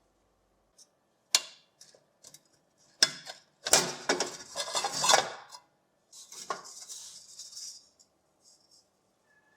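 Metal parts of an old fan heater clinking and rattling as they are handled: a sharp clink about a second and a half in, then a longer clatter around four to five seconds. A short, high scraping sound follows.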